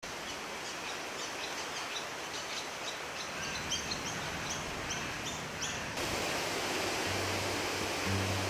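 A bird chirping over and over in quick short notes, each call sliding briefly, over a steady hiss of background noise. The chirps stop abruptly about six seconds in, the hiss gets louder, and low sustained music notes come in near the end.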